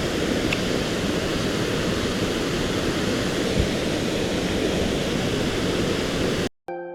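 Steady rush of a mountain stream's flowing water, with a faint knock about halfway through. Near the end it cuts off suddenly, and plucked harp-like music begins.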